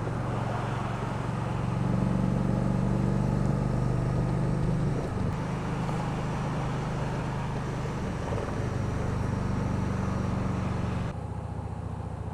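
Heavy bagger motorcycle's engine running steadily under way, with wind and road noise from riding. The engine note shifts a little midway, and the wind hiss drops off suddenly near the end.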